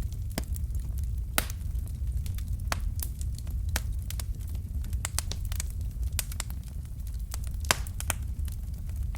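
Fire in a fireplace crackling: irregular sharp pops and snaps over a steady low rumble of the flames, with a louder pop about a second and a half in and another near the end.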